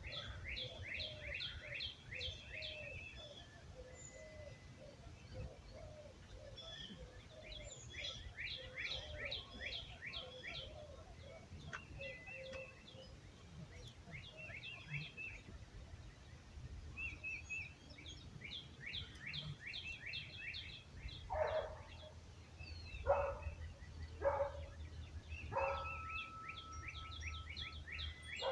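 Birds singing at dawn, repeating short high trilled phrases every few seconds, with a lower call repeating through the first half over a low wind rumble. Near the end, wind chimes strike a few times and one note rings on.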